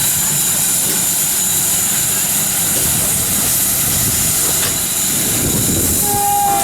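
Loud, steady rumble of a train passing close by. Near the end its horn starts sounding, a pitched note that drops slightly.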